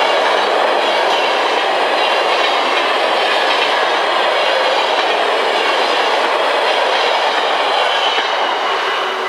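ICRm InterCity passenger coaches rolling past at speed, a steady rushing of steel wheels on rail with clickety-clack over the rail joints. The noise eases slightly near the end as the last coach clears.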